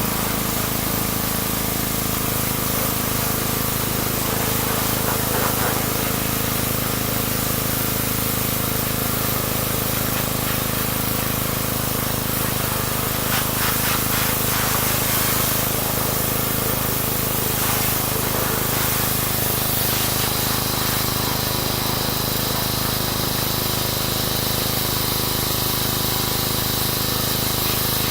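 Pressure washer running steadily, its water jet giving a constant spray hiss over the even hum of the machine.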